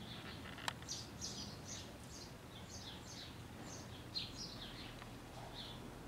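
Small birds chirping: short, high, downward-sliding chirps, about two a second, with a single sharp click less than a second in.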